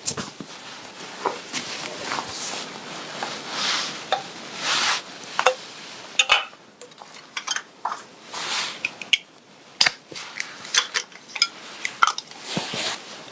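Clothing being handled and adjusted: fabric rustling in short swishes, with scattered small clicks and clinks.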